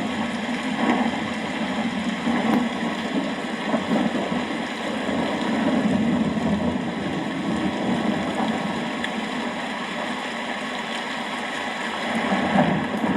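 Steady rain with a low rumble underneath that swells and eases, rising again near the end.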